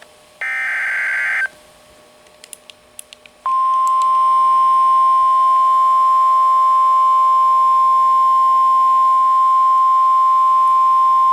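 NOAA Weather Radio alert: the last burst of the screechy digital SAME header, then a few faint clicks, then about three and a half seconds in the single steady 1050 Hz warning alarm tone starts and holds. Together these signal that a warning, here a flash flood warning, is about to be broadcast.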